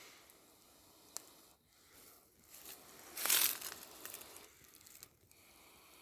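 Dry shredded cedar bark rustling and crackling as a tinder bundle is handled, with one louder burst of noise about three seconds in.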